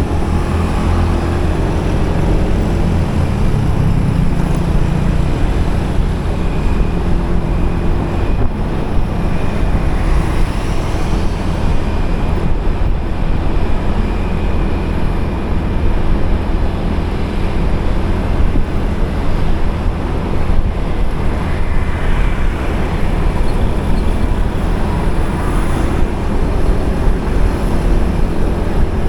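Road noise heard from a moving motorcycle in highway traffic: a steady, loud low rumble of the bike and the surrounding vehicles.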